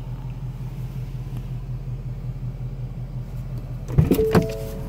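2018 Ford Mustang's 5.0 V8 idling, a steady low rumble heard from inside the cabin. A few sharp knocks come about four seconds in.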